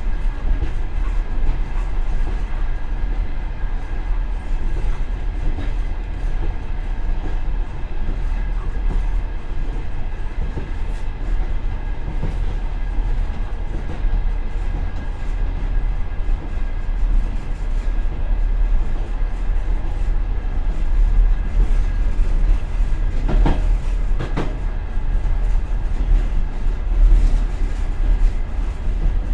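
Passenger train carriage running along the track, heard from inside the rear vestibule of the last car: a steady low rumble of wheels and bogies on the rails. Two louder knocks come a little past two-thirds of the way through.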